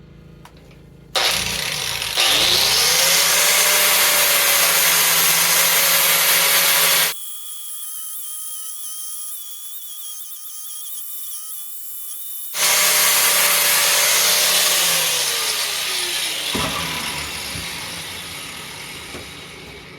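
Angle grinder with a flap disc spinning up and grinding the face of a forged steel axe head, a loud harsh steady noise. It breaks off abruptly into a quieter stretch of steady high whine, then returns before the motor winds down and the sound fades near the end.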